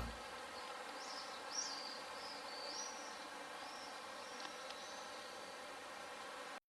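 Faint outdoor ambience: a steady low background noise with a small bird chirping several times in short high notes. The sound cuts off suddenly near the end.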